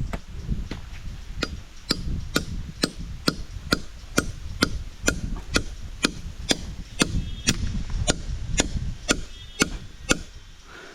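Steady chopping, about two strokes a second, a blade striking wood with a sharp crack and a dull thud on each blow.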